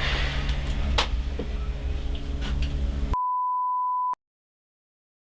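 Steady room hum with a faint click about a second in, then an abrupt cut to a single steady electronic beep tone lasting about a second, followed by dead silence.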